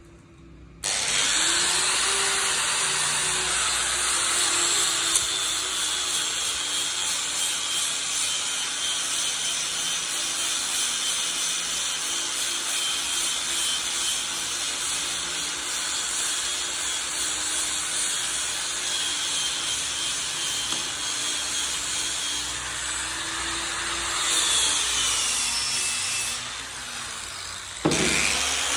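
Handheld electric power tool working wood, its motor running steadily with the abrasive, scraping noise of the wood being cut away; the motor's pitch sags slowly under load and rises again near the end.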